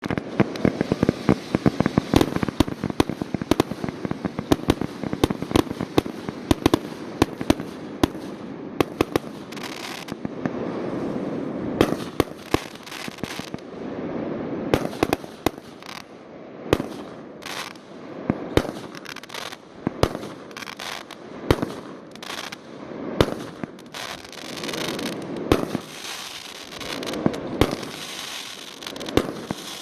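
Fireworks display: a dense run of sharp bangs and crackling in the first several seconds, then sparser single bangs between swelling booms and rumbles.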